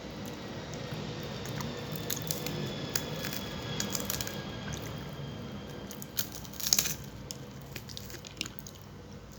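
Close-miked wet chewing and mouth clicks of someone eating fried tilapia with spinach, with scattered sharp clicks; the loudest cluster comes about two-thirds of the way through.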